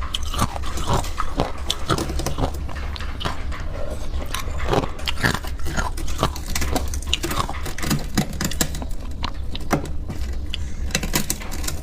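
Chewing and biting: a steady run of irregular crunches and clicks over a low steady hum.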